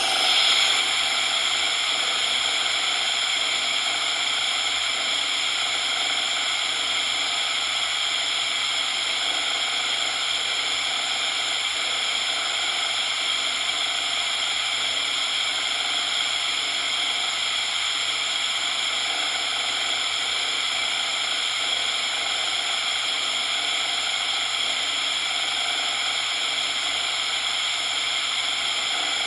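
Steady synthetic coloured noise: an even hiss weighted to the middle and high range with little bass. It shifts in character about half a second in.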